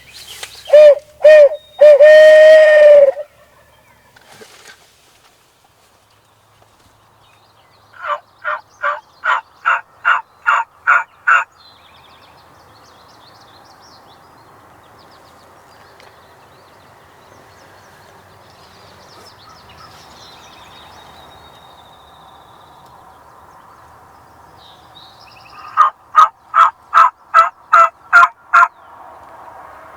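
Turkey yelping: two series of about ten evenly spaced yelps, the first growing louder as it goes, one near the middle and one near the end. About a second in comes a louder call of two short notes and a long one that drops in pitch at its end. High bird chirps are faint between the series.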